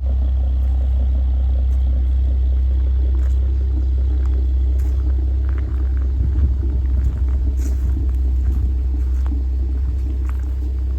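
Infiniti Q50 3.7 V6 with a modified exhaust (resonated test pipes, 3-inch Y-pipe and mid pipe, Helmholtz axle-back) giving a steady, deep rumble that turns a little uneven about midway.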